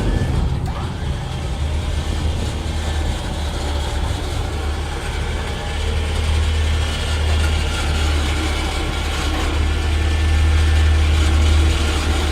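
Dump truck's engine running steadily with a low drone, which gets a little louder about six seconds in and again near the end.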